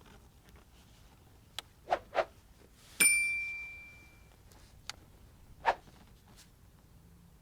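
A few soft clicks and taps, then a single bright metallic ding about three seconds in that rings out and fades over about a second, followed by two more clicks.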